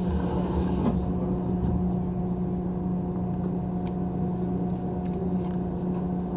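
Running noise of a JR 185 series electric train heard from inside the passenger car: a steady hum over a low rumble, with a few faint clicks. A hiss fades out about a second in.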